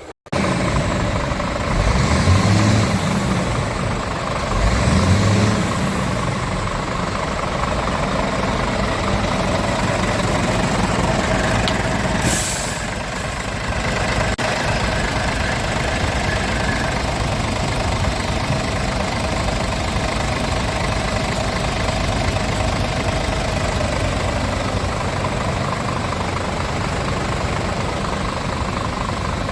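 Scania S tractor unit's diesel engine revved briefly twice, then settling to a steady idle, with a short hiss of compressed air about twelve seconds in.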